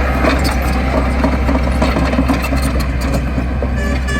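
Heavy construction machine's diesel engine running steadily, with light clicks and clanks over the low hum.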